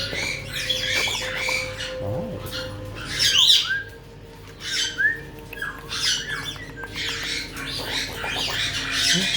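Caique parrots squawking and chattering in a run of short, high calls, the loudest a screech a little past three seconds in that falls in pitch.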